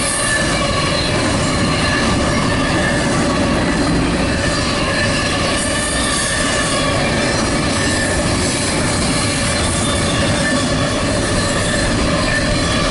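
A CSX intermodal freight train's cars rolling past at speed: a steady, loud wheel-on-rail rumble, with squealing wheels giving several steady high tones over it.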